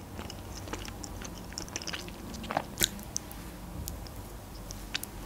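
Close-miked eating sounds: chewing and mouth noises from soft chocolate layer cake, with a few light, sharp clicks scattered through.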